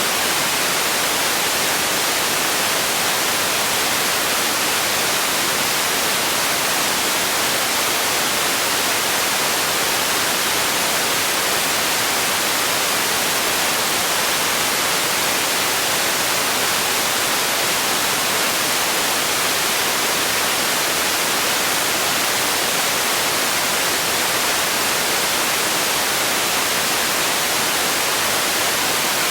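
Steady white noise: an even, unchanging hiss, bright in the treble and thin in the bass.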